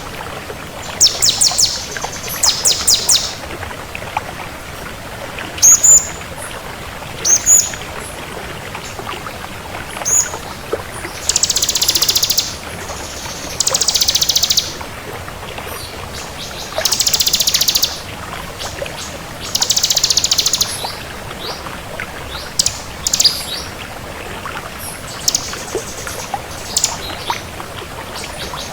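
Bar-winged prinia (ciblek kristal) in full song: quick runs of clicking notes and sharp high chirps, with four buzzy trilled phrases of about a second each through the middle, over a steady faint hiss.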